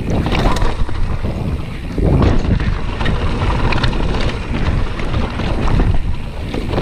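Mountain bike going down a slippery, leaf-covered wet trail on lowered tyre pressure: tyres rolling and knocking over the ground, frame rattling, and wind buffeting the microphone.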